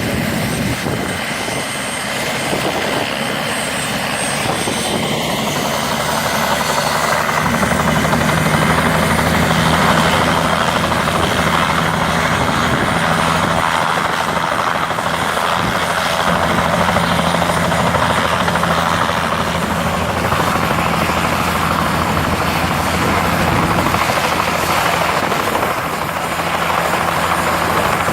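Helicopter engine and rotors running steadily, growing louder about seven and a half seconds in.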